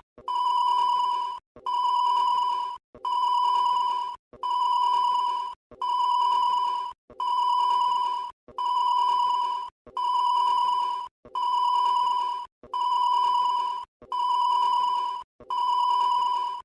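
Electronic ringing tone repeating evenly, a steady-pitched ring of a little over a second followed by a short break, about every one and a half seconds.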